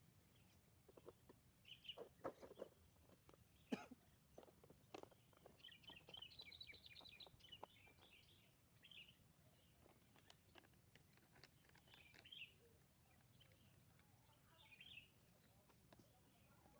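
Faint birdsong: scattered short chirps and a twittering run of calls about six to eight seconds in. A few sharp clicks and knocks sound in the first five seconds, the loudest about four seconds in.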